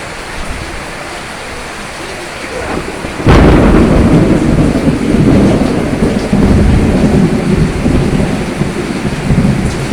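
Steady rain, then about three seconds in a sudden loud thunderclap that carries on as a long deep rumble of thunder over the rain.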